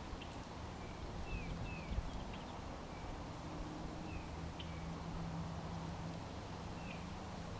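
Small backyard birds giving short, scattered chirps, over a low steady hum, with a low thump about two seconds in.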